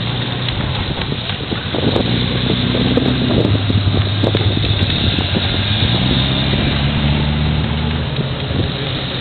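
Several race cars' engines running as they drive slowly off the track, with overlapping steady engine notes that rise in pitch about two and a half seconds in and again about six seconds in.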